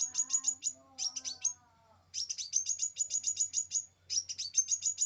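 Small songbirds calling: rapid runs of sharp, high-pitched chips, about six a second, broken by two short pauses. A lower, warbling call sounds under the chips in the first second and a half.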